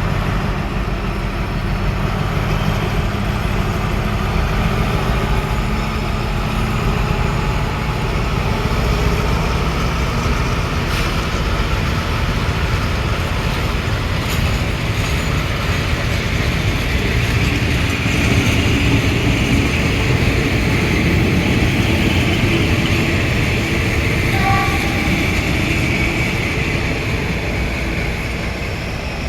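Passenger train running: a steady low rumble of wheels and running gear on the rails, with a higher hissing whine that swells in the second half.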